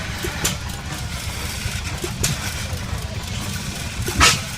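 Engine running steadily with a low rumble, broken by short hissing bursts about half a second in, just after two seconds, and loudest just after four seconds.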